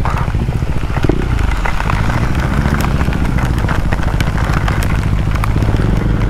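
Motorcycle engine running steadily close by, a continuous dense firing beat.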